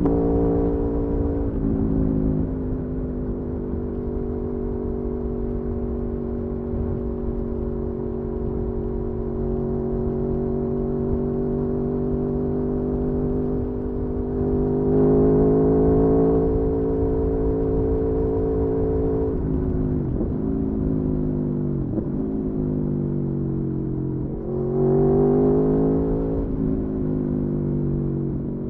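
Aprilia Tuono V4's V4 engine under way, heard from the bike: long stretches of steady cruising, the throttle opening about fifteen seconds in, then three quick dips and recoveries in pitch typical of gear changes, and a final pull that eases off near the end. Wind rumble runs underneath.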